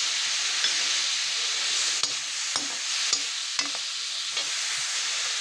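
Onions, tomatoes and whole spices sizzling in ghee in a kadhai while a perforated metal spatula stirs them, knocking and scraping against the pan a few times about two to four seconds in.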